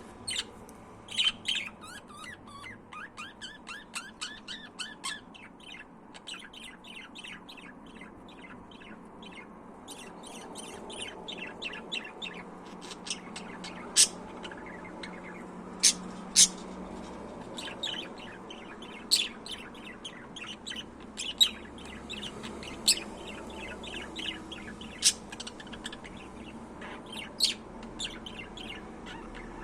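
Budgerigars chirping and chattering in quick runs of short high notes for the first few seconds, then sharp single chips here and there.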